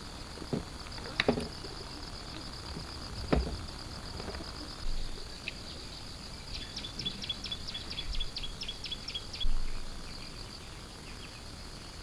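Forest insects chirping steadily in a high, pulsing drone, with a quick run of about eight chirps a second in the middle. A few sharp knocks sound near the start.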